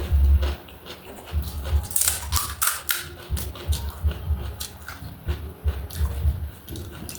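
Close-miked chewing and crunching of crisp food: repeated low thuds of the jaw with sharp crackling clicks, busiest around two to three seconds in.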